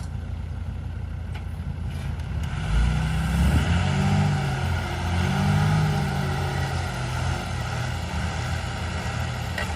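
Heavy diesel engine running steadily. It revs up and pulls harder about three seconds in, then eases back a little after about six seconds.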